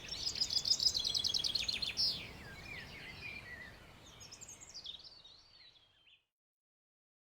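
Forest birdsong: a rapid trill of high notes for about two seconds, then scattered chirps and whistles that fade away, ending in silence for the last second.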